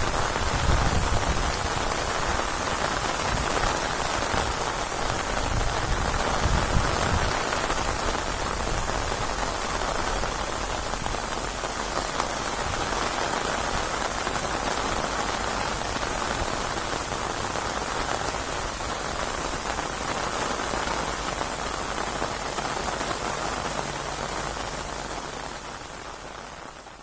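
Heavy rain falling steadily, a dense even hiss, with low rumbles in the first seven seconds; the sound fades out near the end.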